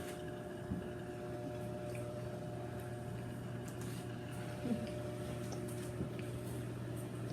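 Quiet room with a steady low hum, over which come faint wet mouth sounds of people chewing a chicken sandwich.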